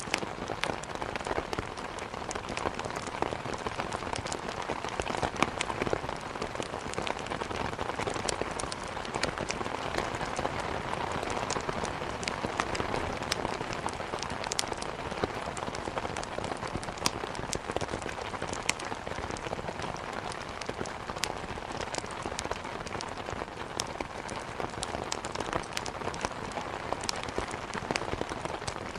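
Steady heavy rain beating on a window, with scattered sharp crackles and pops of burning wood in a fireplace.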